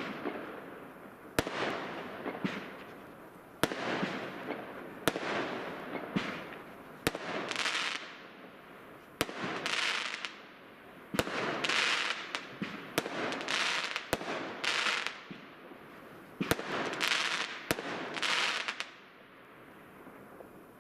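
Multi-shot firework firing shot after shot, about a dozen sharp bangs one to two seconds apart, each followed by a hissing, crackling burst. The volley stops about 19 seconds in.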